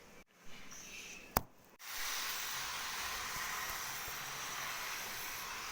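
A toy train running, its motor giving a steady hissing whir that starts about two seconds in. Before it there is a single sharp click between two brief dropouts where the recording was cut.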